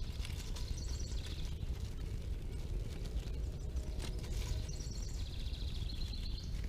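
Birds chirping in two bursts of quick high notes, one about half a second in and one from about four and a half seconds to near the end, over a steady low rumble, with a faint click about four seconds in.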